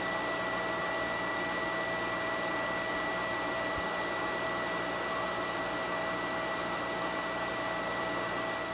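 Irrigation pump running steadily: an even rushing noise with a constant whine and a low hum under it.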